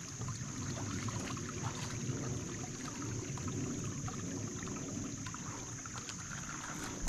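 Small creek running, a steady watery rush, with a constant high insect buzz over it and a few faint clicks.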